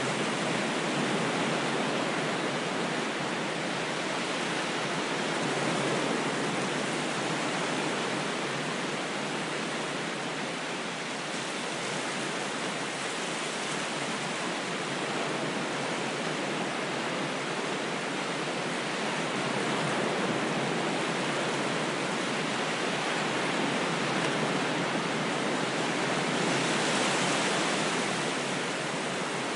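Ocean waves: a continuous wash of surf that swells and eases slowly every several seconds.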